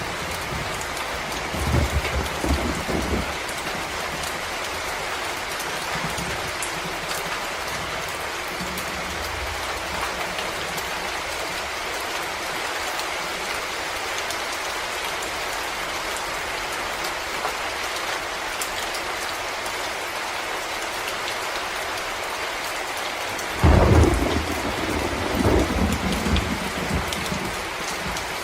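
Steady rain falling on forest leaves and ground. There is a low rumble of thunder a couple of seconds in, and near the end a louder roll of thunder starts suddenly and dies away over a few seconds.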